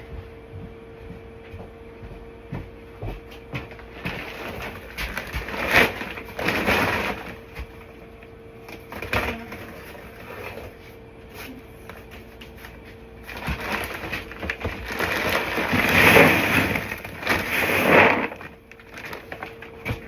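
Cattle cubes (feed pellets) poured from a bag into a feed container, heard as several rustling, rattling bursts. The longest comes in the second half.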